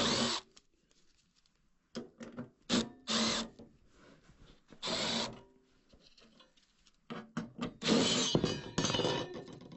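Hand work on sheet-metal furnace parts: scattered clicks and short scraping rubs, with a longer, louder stretch of scraping near the end.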